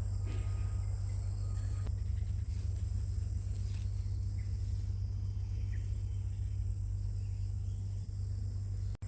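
Steady outdoor ambience: a constant low hum with a thin, steady high-pitched insect drone above it. There is a brief cut-out near the end.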